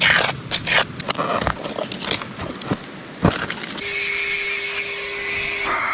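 A run of sharp clicks and knocks, then a shop vacuum motor running with a steady whine and hiss for about two seconds. It is switched off near the end, and its pitch starts to fall as it spins down.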